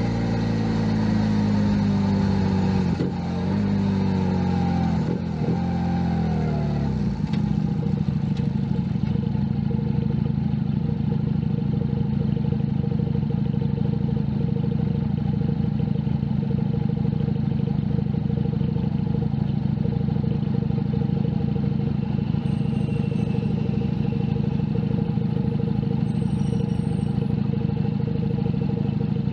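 Junak M11 Cafe's 125 cc single-cylinder engine slowing, its revs falling in steps over the first seven seconds, then idling steadily.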